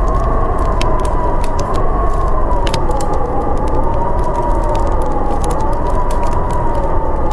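Blizzard wind howling with a slowly wavering, falling whistle over a deep rumble, while a wood fire crackles with frequent sharp pops.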